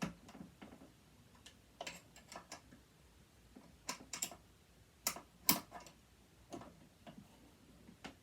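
Irregular small clicks and taps of hand tools and loose parts on a sewing machine being taken apart, with a few sharper clicks around five seconds in.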